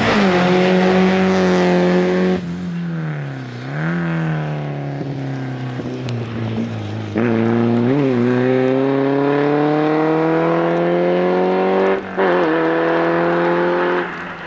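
Volkswagen Polo slalom race car's engine accelerating hard, its pitch climbing steadily in each gear, broken by gear changes and throttle lifts about two, four, eight and twelve seconds in. It fades near the end as the car pulls away.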